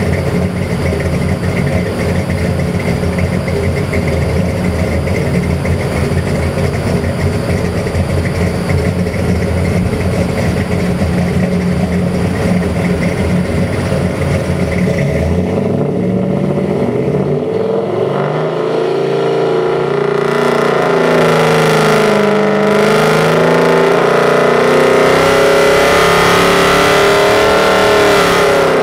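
Oldsmobile 350 V8 crate engine with throttle-body fuel injection running steadily at low speed, then revving up about halfway through and held at higher rpm, its pitch wavering, before dropping off right at the end.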